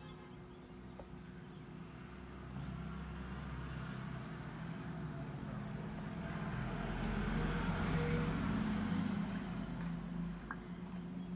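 Road traffic: a motor vehicle passes, swelling to its loudest a little past the middle and then fading.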